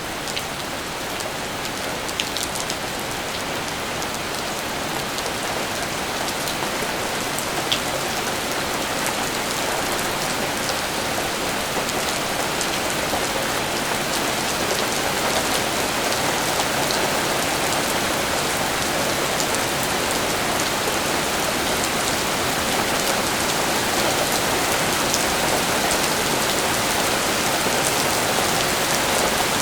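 Steady rain falling, growing gradually heavier, with scattered sharp ticks of individual drops.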